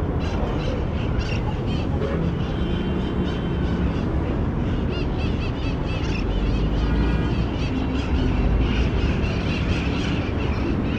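Steady city street traffic noise: a continuous rumble of engines and tyres, with short high-pitched calls over it about halfway through.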